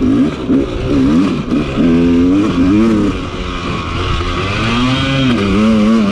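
KTM two-stroke dirt bike engine revving up and down as the throttle is opened and closed, its pitch rising and falling several times.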